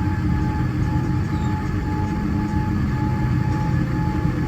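Cabin noise aboard a Boeing 787-9: a steady low rumble with a faint, steady whine over it.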